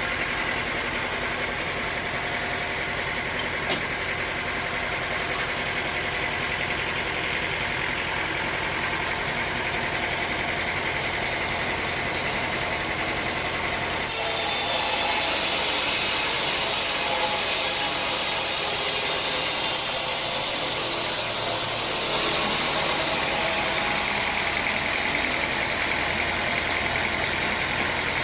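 Sawmill machinery running steadily. About halfway in, a louder, higher hiss sets in for some eight seconds, then eases off.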